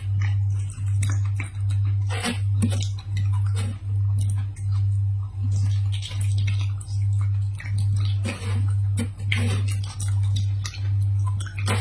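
Crunchy biting and chewing of crisp food, in scattered clusters of sharp crackles, over a loud low hum that pulses evenly a little more than once a second.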